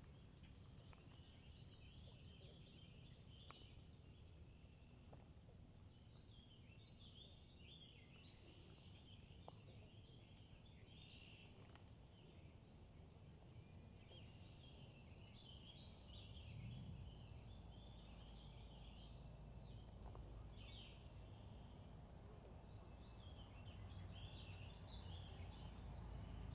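Faint birdsong: birds chirping and twittering on and off over a low, steady background rumble.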